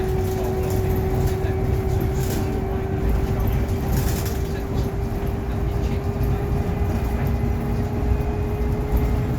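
Scania Omnilink K230UB bus heard from inside while on the move: a steady low engine and road rumble with a driveline whine that rises slowly in pitch as the bus gathers speed.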